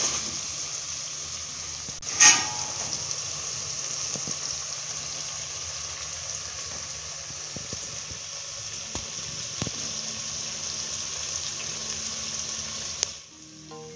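Beef, tomatoes and onions sizzling in a stainless steel pot, a steady high hiss, with a wooden spoon stirring. About two seconds in, the spoon knocks once against the pot and the metal rings briefly. The sizzling cuts off about a second before the end.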